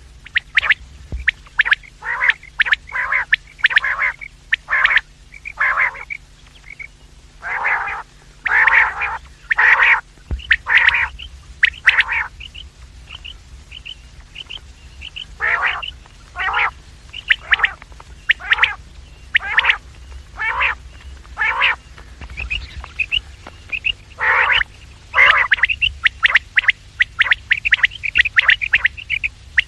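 Quails calling over and over: short, harsh calls in quick runs with brief gaps, joined in places by thin, high chirping.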